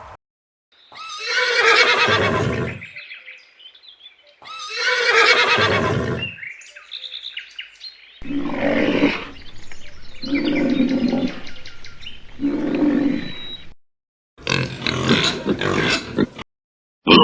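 A horse neighing twice, two long whinnies, followed by a rhinoceros giving three shorter, lower calls. Near the end a pig starts grunting.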